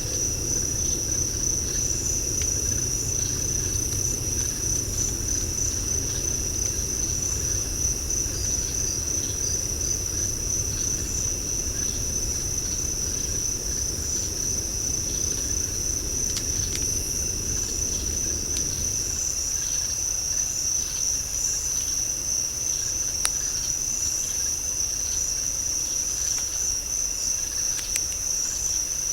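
Night insect chorus: a steady, high, slightly pulsing trill that holds at one pitch throughout. A low rumble underneath fades out about two-thirds of the way in, and a few faint clicks stand out.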